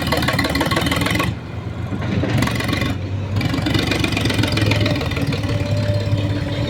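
Diesel engine of a JCB backhoe loader running hard while loading murram, with brief drops in level about a second in and near three seconds.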